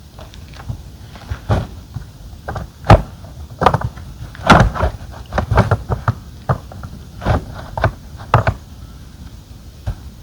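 Irregular clunks, knocks and rustling as a roof top tent and its gear are handled while it is folded up, with the sharpest knocks about three and four and a half seconds in.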